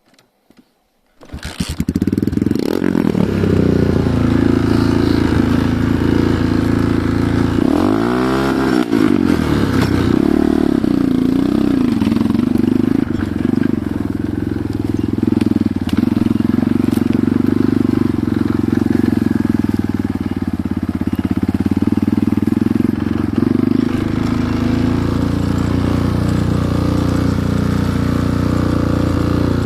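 Enduro motorcycle engine running steadily, coming in abruptly about a second in, with brief rises and falls in revs about a third of the way through.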